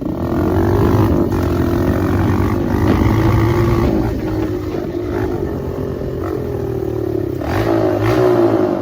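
Dirt bike engine running hard under throttle. It comes up sharply at the start, holds with its pitch gently rising and falling, and climbs once more near the end before dropping away.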